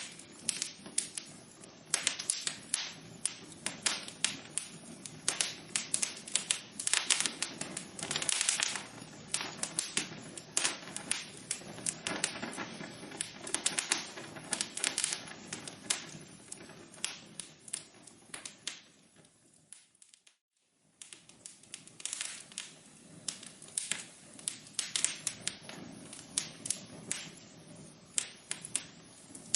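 Wood fire crackling in a fireplace: irregular sharp pops and snaps over a low steady hiss. About two-thirds of the way through the sound fades and drops out for about a second, then the crackling resumes.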